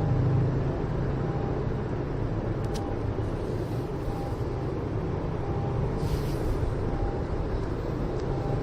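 Steady low background rumble, even throughout, of the kind made by traffic or a running engine.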